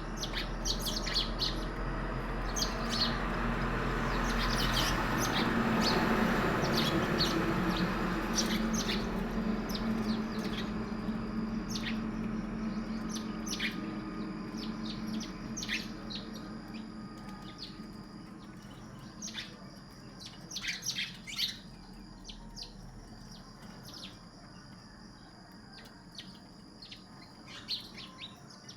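Birds chirping with many short, high calls throughout. A low rumble with a faint hum swells over the first few seconds, is loudest about six seconds in, and fades away by about eighteen seconds.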